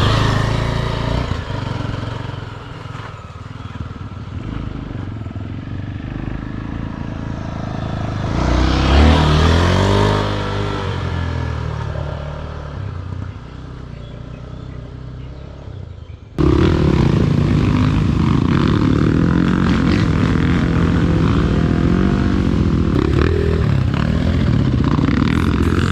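Dirt-bike engines running on a trail, with one revving and passing close about nine seconds in. After an abrupt cut about sixteen seconds in, an engine runs louder and steadier.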